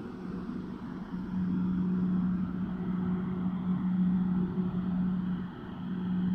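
Electric multiple-unit train standing at the platform, giving off a steady low electrical hum. The hum grows louder about a second in and dips briefly near the end.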